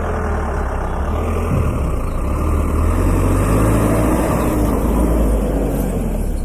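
A motor vehicle's engine running steadily, growing louder over the first few seconds, with road noise.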